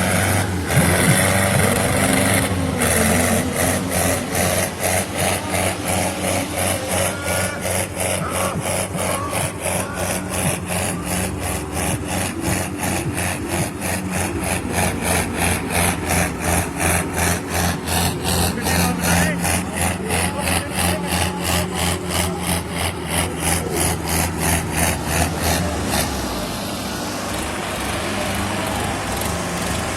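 Sonalika tractor diesel engines running hard under heavy load in a tug-of-war pull, with a fast, regular pulsing over the steady engine note. About 26 seconds in the pulsing stops and the engine sound turns smoother and slightly quieter.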